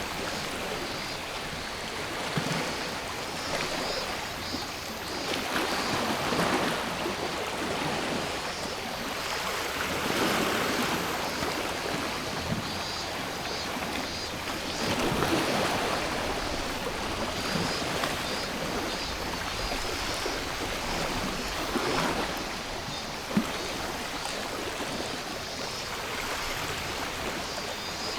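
Small sea waves washing onto the shore in repeated swells, each rising and falling over a few seconds. One sharp click stands out near the end.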